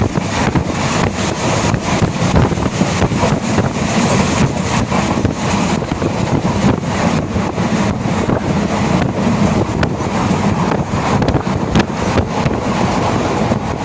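Passenger train running along the line, heard from on board: the rumble and irregular clatter of wheels on the rails, with wind buffeting the microphone.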